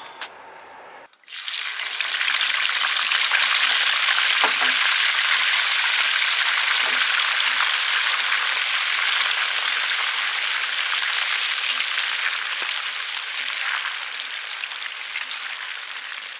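Crucian carp frying in hot oil in a cast-iron kazan: a loud, steady sizzle. It starts abruptly about a second in and eases off slightly near the end.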